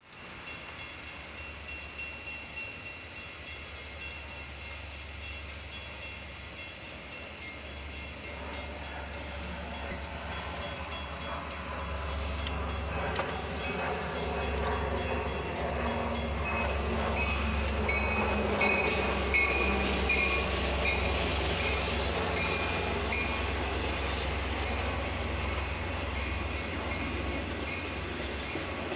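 Metra commuter train approaching and passing a grade crossing, growing steadily louder through the middle and staying loud as the cars go by, with the crossing's warning bell ringing in a fast, even rhythm throughout. Heard from inside a car stopped at the gates.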